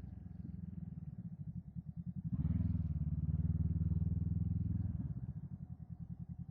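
Motorcycle engine running at low speed with a fast, even pulsing beat. It picks up, louder and steadier, for about two and a half seconds in the middle, then drops back to the low pulsing.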